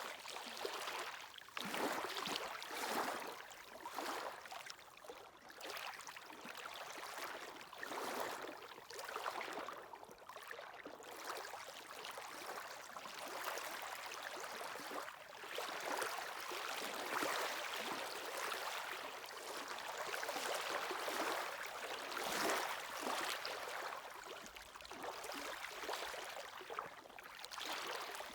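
Sea waves washing onto the shore: a rushing, hissing wash that swells and falls every second or two.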